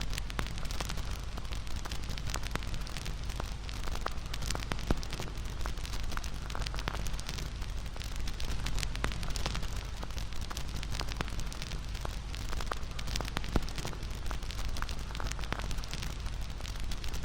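Wood bonfire crackling steadily: dense popping and snapping over a low rumble of flames, with a couple of sharper pops, one about thirteen seconds in.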